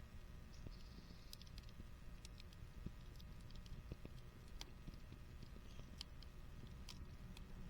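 Wood fire burning in a compact V-shaped grill fire pit, crackling with sparse, irregular faint snaps and pops.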